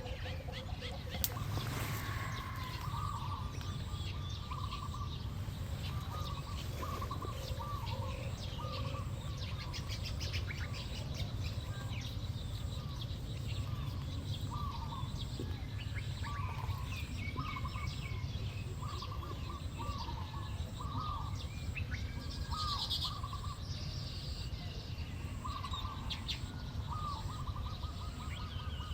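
Small birds chirping: short, repeated notes over a steady low background rumble, with a few higher notes about three quarters of the way through.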